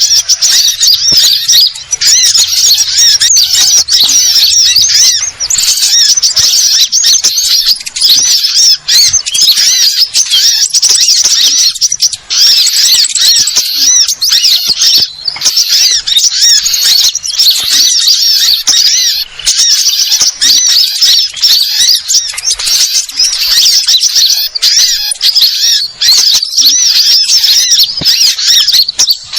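Many sunbirds calling at once: a dense, unbroken chorus of high-pitched, squeaky chattering calls, loud and without pauses.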